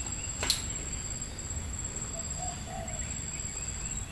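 Spotted dove cooing faintly, two short low notes about two seconds in, over a steady high insect drone; a sharp click about half a second in.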